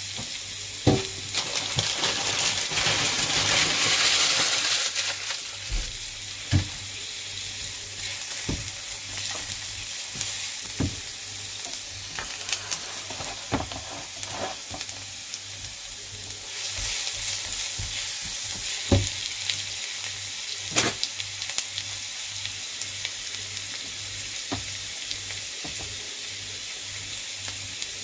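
Chopped onion and garlic frying in a nonstick frying pan, sizzling steadily, with now-and-then taps and scrapes of a silicone spatula stirring them against the pan. The sizzle swells for a few seconds near the start and again a little past halfway.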